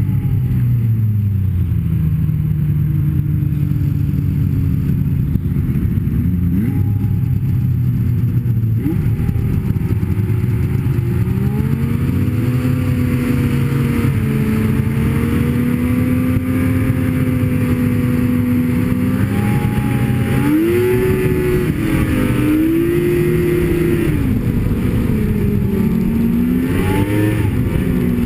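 Snowmobile engine running as the sled is ridden, its pitch dropping at first, holding steady, then rising and falling several times near the end as the throttle is worked.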